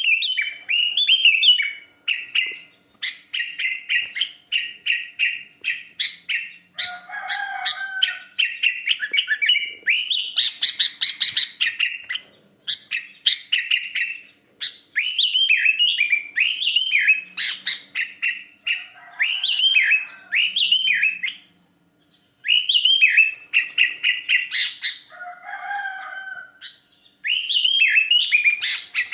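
Sooty-headed bulbul singing persistently: runs of quick, bright chirping phrases with short pauses between them. A lower call breaks in a few times.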